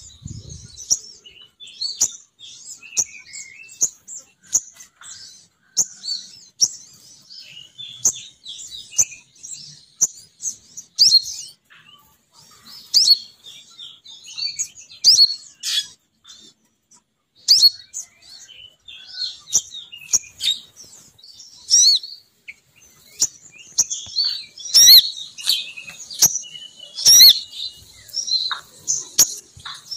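Lure recording of a female sogon bird calling: rapid, high-pitched chirps and twitters, nearly unbroken, with a few sharp loud notes. This is the call used to draw male sogon birds down.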